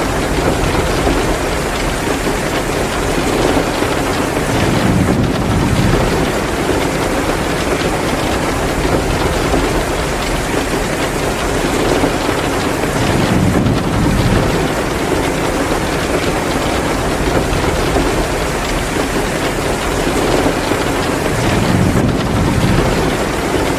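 Heavy rain pouring steadily, with a low rumble swelling up three times, about every eight to nine seconds.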